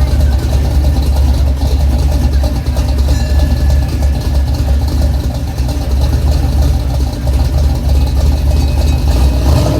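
Vehicle engine idling steadily with a deep, even rumble.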